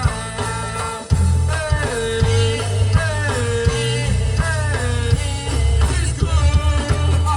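Live gospel band playing: heavy bass and drums hold a steady groove while a held, gliding melody line rides over them.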